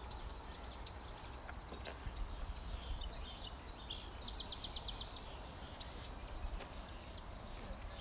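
Songbirds chirping and singing. About halfway through, one gives a quick trill of roughly ten notes a second, over a steady low rumble.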